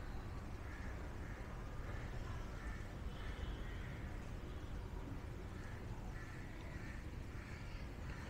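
A series of short bird calls in two bouts, one over the first few seconds and another from about six seconds in, over a steady low outdoor rumble.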